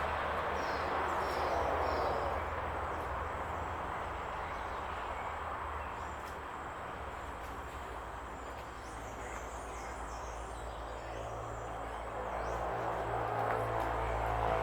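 Outdoor field ambience: a steady rushing noise over a low hum, with a few faint high bird chirps about a second in and again around ten seconds in.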